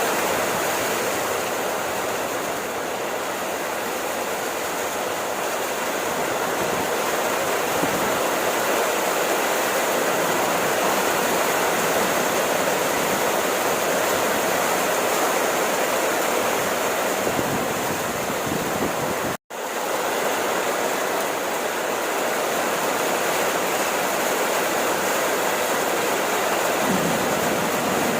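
Steady, heavy rainfall, a dense even hiss of falling rain with no single drops standing out. The sound cuts out for a split second about two-thirds of the way through, then carries on unchanged.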